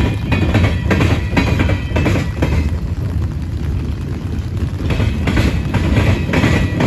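Freight cars of a manifest train rolling past: a steady low rumble with groups of wheel clicks as the trucks cross rail joints, and a faint thin ringing tone above.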